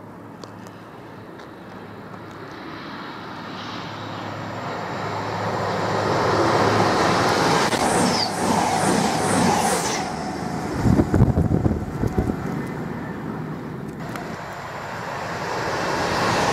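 Passenger train approaching and passing close by at speed: a rising rush of wheel and rail noise that is loudest about six to ten seconds in, with a quick run of short high squeals near eight seconds and low thuds around eleven seconds, then fading. Near the end the noise of the next approaching train starts to build.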